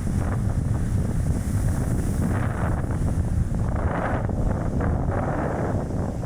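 Strong gusty wind buffeting an action camera's microphone in a moving car, with a steady low rumble and swells of gusts, over the car's road noise.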